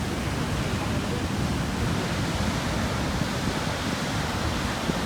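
Heavy Atlantic surf breaking and churning on a rocky shore at high tide: a steady rush of water, deepest in the low end, with no single crash standing out.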